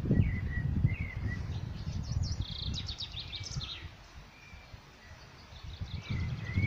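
Small birds chirping and twittering, with a quick run of short high chirps a little past the middle, over a low rumble on the microphone that fades out about two-thirds of the way through.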